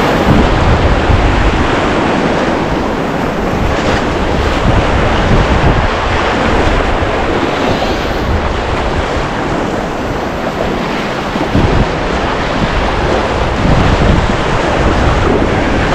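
Whitewater of a river running at high flow, rushing loud and steady, with wind buffeting the microphone.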